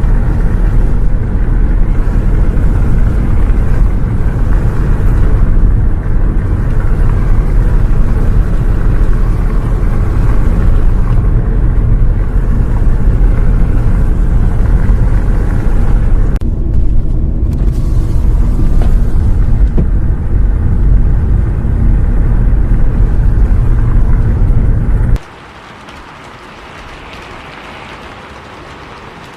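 Bus travelling in the rain: a loud, steady low rumble with a rushing noise over it. A few seconds before the end it cuts off abruptly to a much quieter steady hiss.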